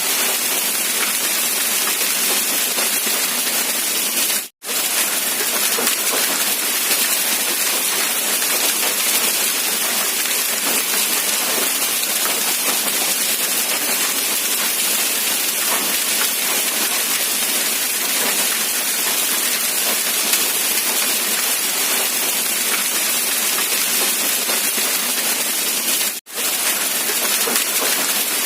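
Rain falling in a steady, even hiss. It cuts out for a split second twice, about four and a half seconds in and near the end.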